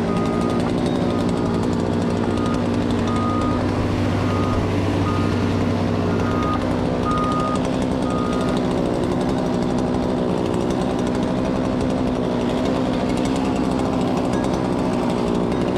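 Diesel engine of a Cat excavator running steadily under load. A travel alarm beeps in short pulses over it and stops about eight seconds in.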